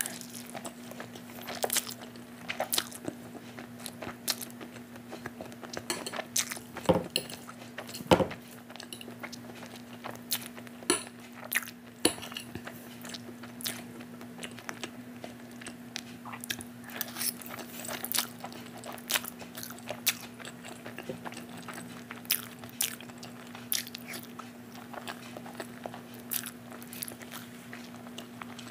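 Close-miked mouth sounds of eating Maggi instant noodles and boiled egg: wet chewing with frequent sharp smacks and clicks. Two louder knocks come about seven and eight seconds in, and a steady low hum runs underneath.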